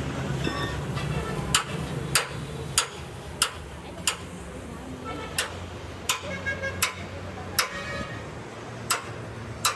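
Hammer blows on sheet metal, sharp single strikes at a steady pace of about one every two-thirds of a second, with a short pause in the middle.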